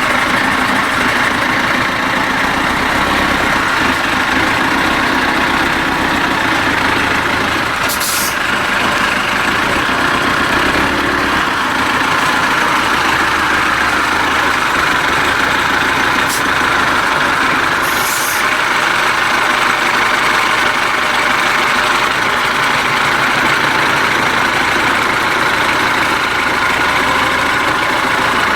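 IFA W50 truck's diesel engine running steadily. Two brief hisses come about 8 and 18 seconds in, with a short click between them.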